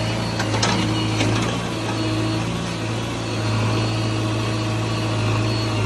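Heavy diesel engine running steadily at constant speed, with a few sharp knocks in the first second and a half.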